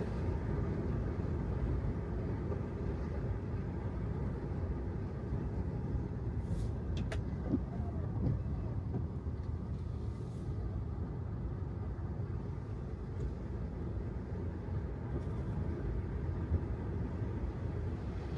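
Steady low rumble of a Tesla Model 3's tyres and road noise on wet pavement, with faint brief hissing swishes about seven and ten and a half seconds in.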